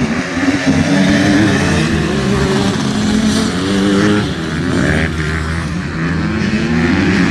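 Several motocross bikes racing, their engines revving high, with the pitch climbing and dropping over and over as the riders work the throttle and shift gears.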